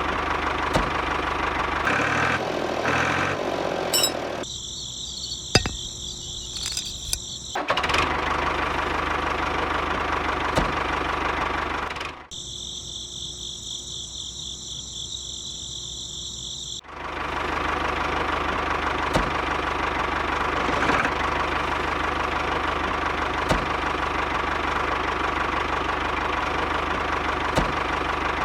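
Small motor running steadily with a mechanical whir. The sound is cut twice, about four seconds in and around twelve seconds, by quieter stretches that hold only a high, steady buzz.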